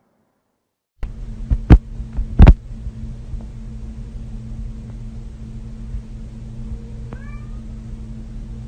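A steady low hum with two loud knocks about a second in, then a short, pitched animal cry near the end.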